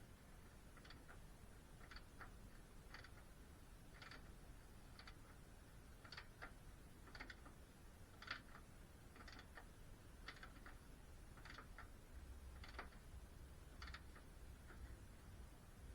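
Faint, regular ticking, about once a second, over near silence.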